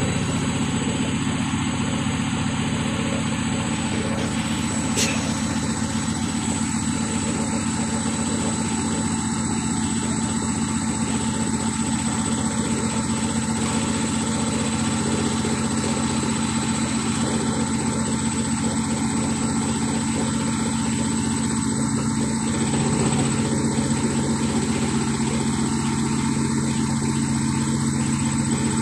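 Atlant 50S102 front-loading washing machine in its spin cycle: a loud, steady whirring hum of the spinning drum and motor. A second, lower tone joins in about three quarters of the way through.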